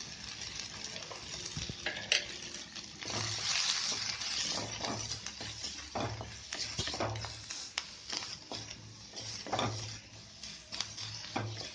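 Chopped onions and chilli powder sizzling in hot oil in a kadai, stirred with a spatula that scrapes and knocks against the pan many times.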